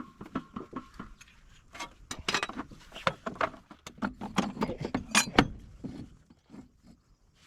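Irregular metallic clinks and knocks of hand tools and metal parts being handled during truck gearbox work, busiest in the middle with the loudest knock near the end.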